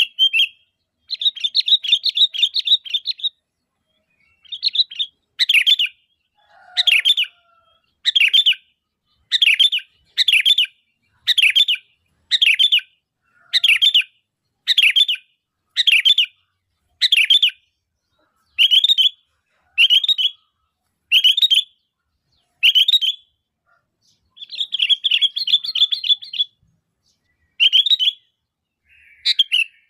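Sooty-headed bulbul (kutilang) calling loudly. Brief bubbly chattering runs come near the start and again about 25 seconds in, and between them short call notes repeat at an even pace of a little under one a second.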